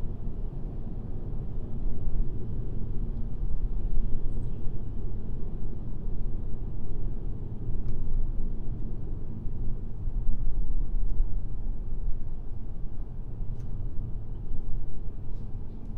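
Steady low road noise of a car driving at highway speed, tyre and engine rumble rising and falling gently, with a few faint ticks.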